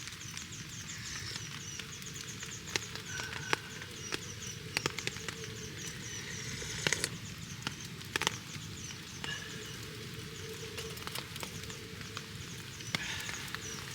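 Wood campfire crackling, with sharp pops scattered throughout over a steady low rush of burning.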